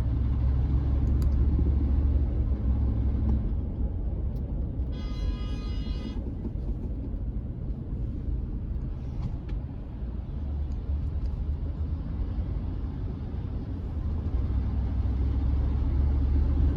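Chevrolet C10 pickup driving, heard from inside the cab: steady low engine, exhaust and road rumble that eases off after about three seconds and builds again near the end, with the catalytic converter in the Y-pipe having come loose and rattling in the exhaust. A brief high tone sounds for about a second around five seconds in.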